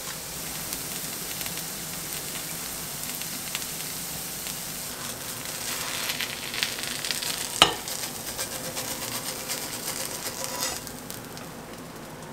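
Mashed-potato patties sizzling and crackling as they fry in a pan. A single sharp click or knock comes about two-thirds of the way through, and the sizzle softens near the end.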